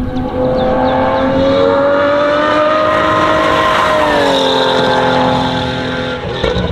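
Lotus Emira GT4 race car's 3.5-litre supercharged V6 running hard, its pitch climbing through a gear, then dropping on an upshift about four seconds in and holding steady.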